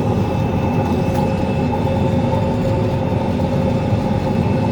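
Rostselmash Acros 585 combine harvester heard from inside its cab while harvesting sunflowers: its Cummins diesel and threshing machinery run as a steady heavy rumble, with a few constant whines from the drives over it.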